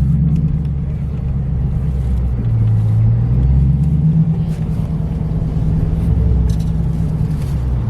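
Car engine running at low speed, heard from inside the car: a steady low drone whose pitch rises and falls slightly as the car creeps along, with a few faint clicks near the end.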